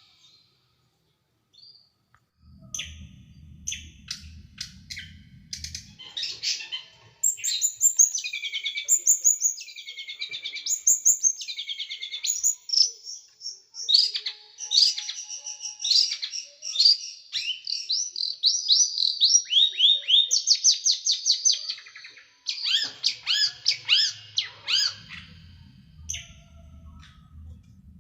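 Small songbird singing fast, sharp runs of short, high descending chirps in quick bursts, the rapid 'nembak' (shooting) song used to tutor cage birds. It starts about two seconds in, after a brief silence.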